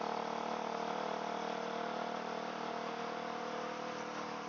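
Motorcycle engine with an aftermarket sport exhaust running at a steady, even note that eases slightly towards the end, muffled by a microphone inside the rider's helmet.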